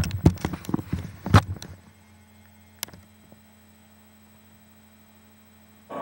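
A quick run of sharp knocks and clicks in the first second and a half, then a steady electrical mains hum with one sharp click near the middle.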